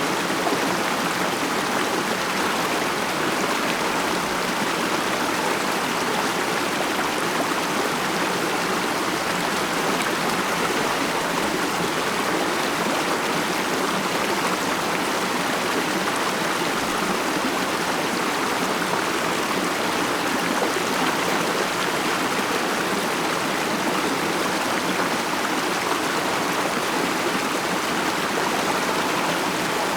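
A stream of water flowing over stones, a steady rushing and babbling.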